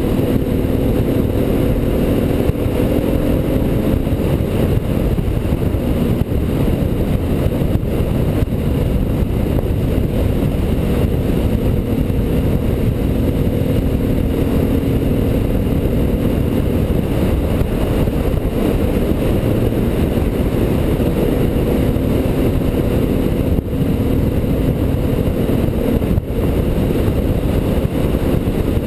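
Motorcycle engine running at a steady cruising speed, its note holding level, largely buried under heavy wind rush on the microphone.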